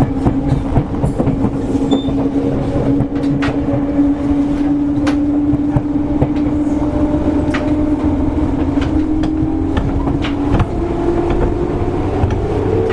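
Seibu 101 series train heard from inside motor car MoHa 223: the low-pitched traction motor hum holds a steady tone over running noise, with sharp clicks as the wheels cross rail joints. About ten and a half seconds in, a second, higher motor tone comes in and begins to rise.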